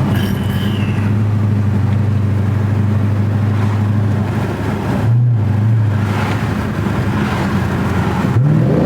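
Dodge Charger SRT8's 392 Hemi V8 running steadily while the car is driven, with a brief change in the engine note about five seconds in; near the end the pitch rises quickly as it accelerates.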